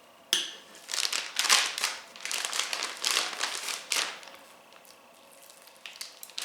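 Plastic zip-top bag crinkling and rustling in a run of bursts as chicken cutlets are put into it, then a quiet stretch of about two seconds before a little more rustling near the end.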